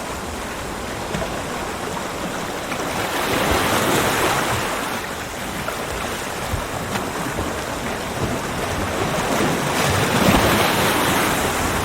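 Ocean waves breaking on a beach, a steady wash of surf that swells twice, about four seconds in and again near the end.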